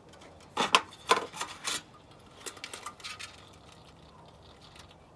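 Light metallic clinks and clatter of grooming tools being handled, likely as a metal comb is picked up: several sharp clinks in the first two seconds, then a few softer ticks about a second later.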